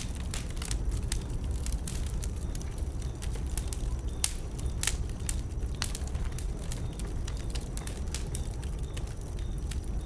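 Wood burning in a bonfire, crackling with irregular sharp pops over a steady low rumble of the flames.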